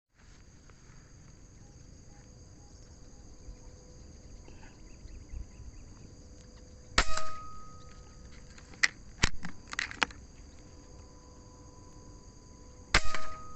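Two sharp air-rifle shots, about six seconds apart, with a few lighter clicks between them, over a steady high-pitched buzz of insects.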